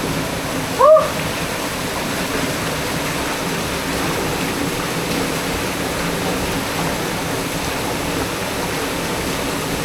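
Steady rushing noise of a waterfall close by. About a second in, a brief pitched sound rises and falls once over it.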